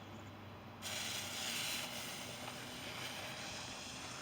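A lit firework fuse hissing faintly and steadily, starting about a second in, just before the firework goes off.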